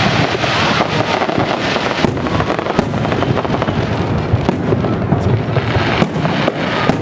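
Aerial fireworks going off in rapid succession: a continuous barrage of booms with dense crackling and sharp pops.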